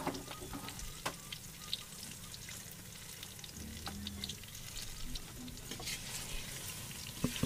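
Banana slices deep-frying in hot oil in a steel wok, a steady sizzle with scattered small crackles. A few sharp clicks stand out: one about a second in and two near the end.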